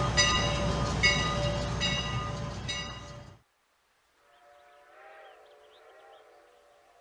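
Steam locomotive running close by with its bell ringing about once a second over the train noise. The sound cuts off suddenly about three and a half seconds in. After a moment of silence a faint, wavering steam whistle is heard in the distance, with faint bird chirps.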